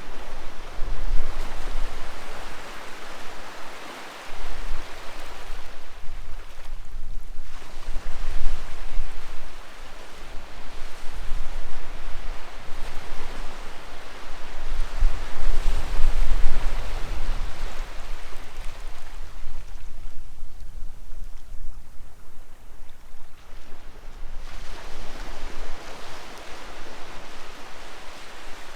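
Sea waves washing onto the shore, swelling and ebbing in slow surges. The surf is quietest for a few seconds about two-thirds of the way through, then builds again.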